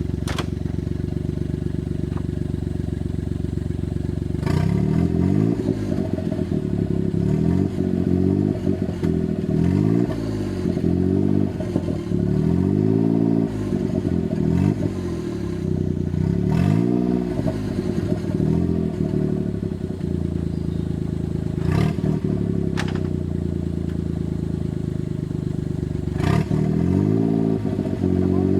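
Suzuki Jimny JA11's engine idles, then is revved up and down again and again in short bursts, as when working an off-road obstacle. Scattered clattering knocks are heard over it.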